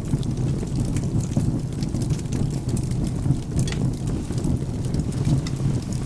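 Crackling wood fire, its short sharp pops scattered all through, over a steady low rumble of rain and thunder.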